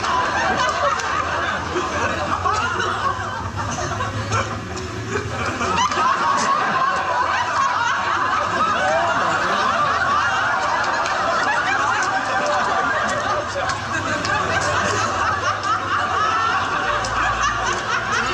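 Audience in a hall laughing together, many overlapping chuckles and laughs that go on steadily throughout.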